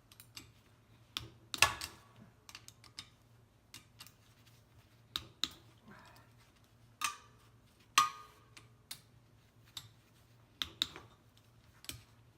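Hand ratchet with a 1/2-inch socket working on the bolts of a semi-hermetic compressor: scattered sharp metallic clicks and clacks at uneven intervals. The loudest come about a second and a half in and again about eight seconds in.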